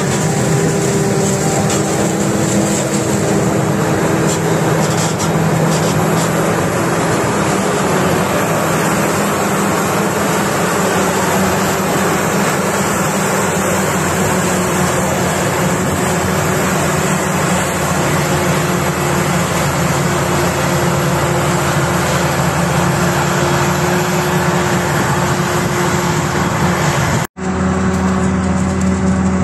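Heavy diesel farm machinery running steadily under load during silage harvesting. The sound drops out for an instant near the end and then carries on.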